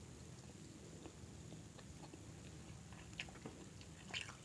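Quiet chewing and mouth sounds of people eating grilled chicken with their hands, with a few small sharp clicks, one about three seconds in and one near the end.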